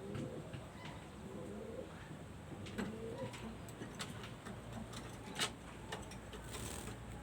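Domestic pigeons cooing in low, wavering calls, with a few sharp clicks, the loudest about five and a half seconds in.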